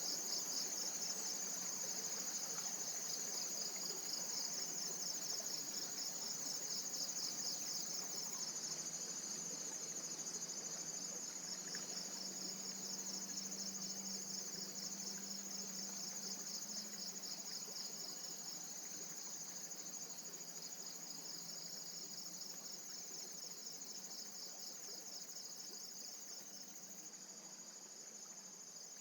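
Steady, high-pitched chorus of forest insects: a fast, pulsing trill that slowly gets quieter.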